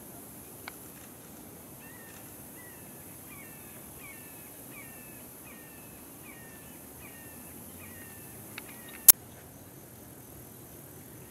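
A bird calls a run of short, falling two-note phrases, about two or three a second, from about two seconds in until about eight seconds in, over a steady outdoor hiss. There are a couple of faint clicks, and one sharp, loud click about nine seconds in.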